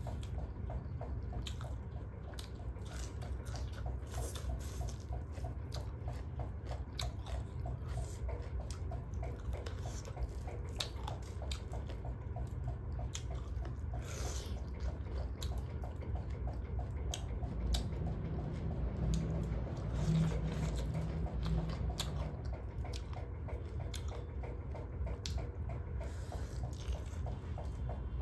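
Close-up mukbang eating sounds: a mouth chewing and smacking a meal of duck curry, with many small wet clicks and crunches over a steady low hum.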